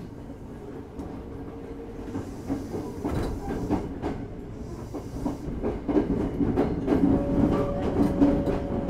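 Hankyu 8040-type (8000 series) electric train running, heard from beside the bogie: the wheels click over rail joints and the running noise grows louder, with a steady whine from the Toshiba GTO inverter-driven traction motors in the last couple of seconds.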